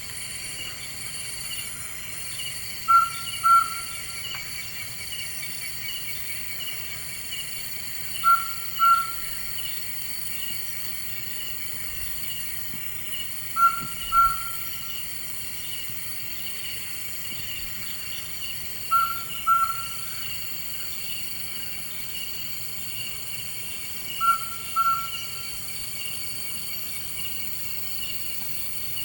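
A night bird calling a pair of short, clear notes, repeated five times at about five-second intervals, over steady insect chirring.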